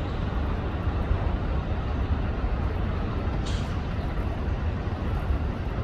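Steady outdoor city traffic noise with a low rumble, and a short hiss about three and a half seconds in.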